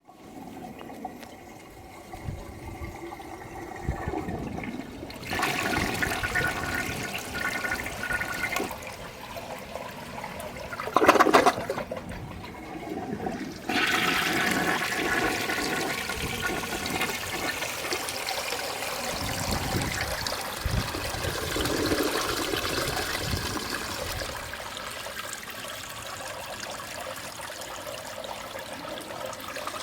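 1986 Lamosa Atlas toilet flushing: water rushing, with a brief loud surge about a third of the way in, then steady running water as the tank refills.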